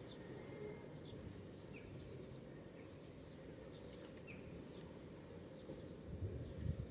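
Faint, scattered chirps of small birds over a steady low outdoor background noise, with a few soft low thumps near the end.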